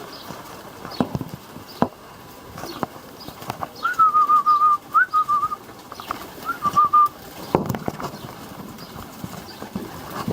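Domestic pigeons: scattered taps and clicks with some low cooing. Near the middle there are two short runs of quick, wavering whistled notes, the loudest sound here.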